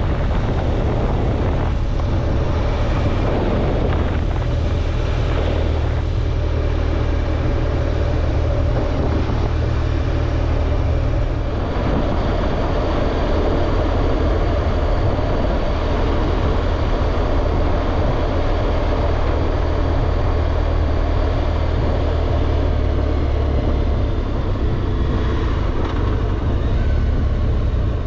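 BMW R1200GSA's boxer-twin engine running steadily under way, with a continuous low drone and a steady rush of road and air noise.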